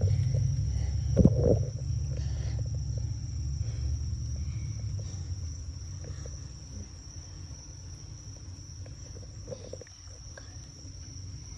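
Low rumble on the microphone that fades gradually over the first several seconds, with a thin, steady, high-pitched whine underneath throughout.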